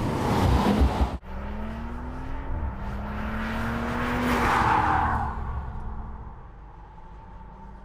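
2017 Audi S4's turbocharged 3.0-litre V6 accelerating, its note climbing through the revs with a brief drop at an upshift. It swells into a passing rush of engine and tyre noise about five seconds in, then fades away.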